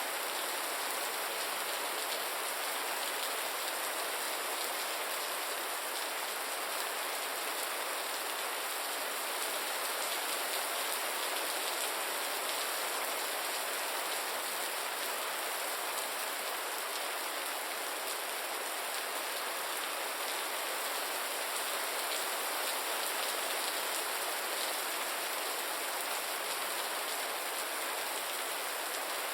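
Steady rain falling, an even hiss of many drops with no breaks or separate sounds.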